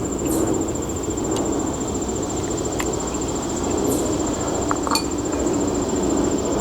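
Crickets trilling steadily over a low, steady background rumble, with a few faint, sharp clicks.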